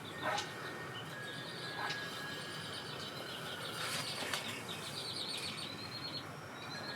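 Small birds chirping in quick repeated trills, with a few light clicks and knocks in between.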